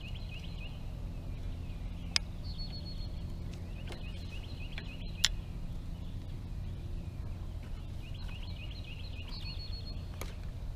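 A bird singing three times, each song a run of quick repeated chirping notes lasting about two seconds, over a steady low rumble. Sharp clicks about two seconds in, about five seconds in and near the end come from fishing tackle being handled.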